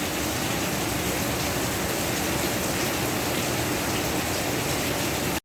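Steady rain falling, an even hiss of drops that cuts off abruptly near the end.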